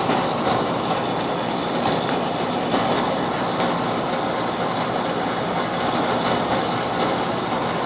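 Outdoor condensing unit of a split-system air conditioner running steadily: compressor and condenser fan, the compressor running again after a failed run capacitor was replaced.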